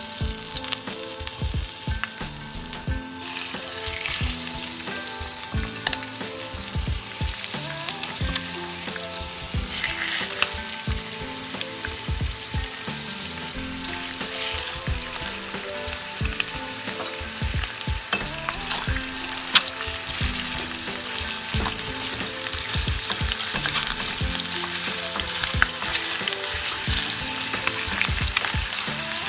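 Chicken pieces frying in hot oil in a stainless-steel pan: a steady sizzle with scattered pops and crackles, with the pieces being laid in and moved about with a wooden spoon.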